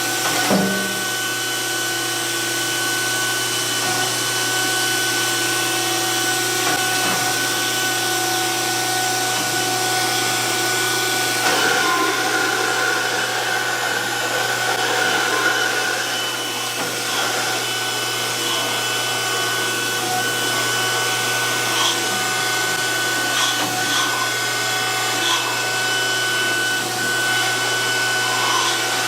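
DoAll 14-inch surface grinder running, grinding steadily with a constant hum and a steady high whine. There is a short knock about half a second in.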